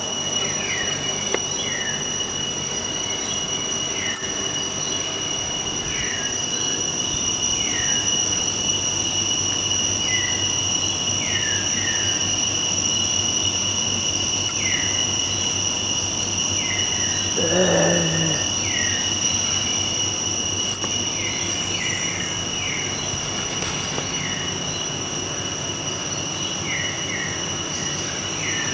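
A horse whinnies once, about two thirds of the way in, the call falling steeply in pitch. Under it runs a steady high-pitched whine, with short falling chirps repeating every second or two.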